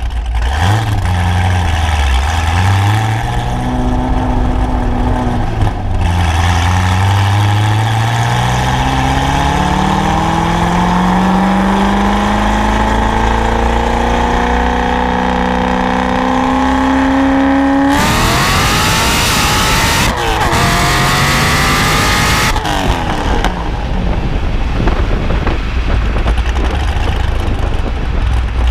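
Supercharged LS7 7.0-litre V8 of a C6 Corvette Z06 with a Corsa exhaust accelerating: engine speed climbs steadily for about twelve seconds, then a louder, harsher stretch with a couple of jumps in pitch, and about twenty-three seconds in the throttle closes and the engine drops back to a low, rough burble.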